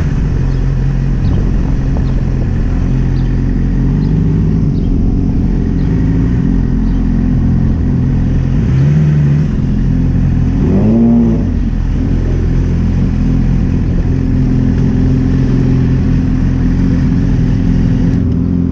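Sportbike engine running while riding in traffic, a steady low engine note under a haze of wind and road noise. The pitch shifts briefly around four and nine seconds in, and rises and falls about eleven seconds in.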